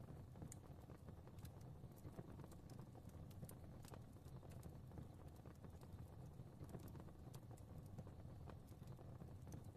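Fireplace fire crackling quietly: irregular small pops and snaps, several a second, over a low steady rumble of flames.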